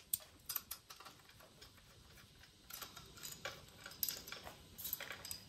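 Faint, irregular light clicks and taps of hand tools working bolts on the bike's battery mount, spaced anywhere from a fraction of a second to about a second apart.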